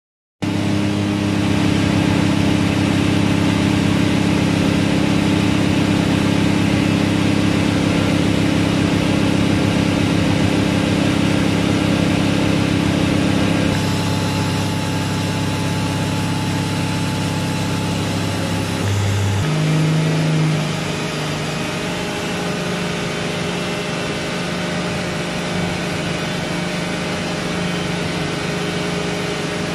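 Turbocharged Toyota 2JZ-GTE straight-six, newly built and being run in, running steadily on a chassis dyno. About nineteen seconds in its pitch steps and it briefly swells, then settles to a lower, somewhat quieter steady run.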